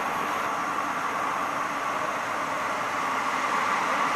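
Steady hiss and rumble in a tiled underground station, growing a little louder near the end as a blue Pågatåg electric regional train approaches through the tunnel.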